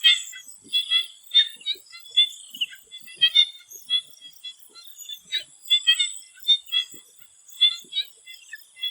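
A chorus of swamp frogs calling, many short calls overlapping at an irregular pace, over a faint steady high hum of insects.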